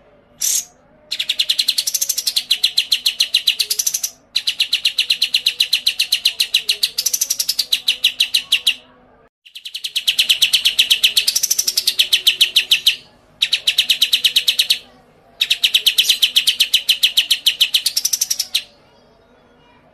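A songbird sings five long, rapid trills of evenly repeated high notes, each trill carrying a quick upward-and-back sweep in pitch, with short pauses between them. A single short note comes just before the first trill.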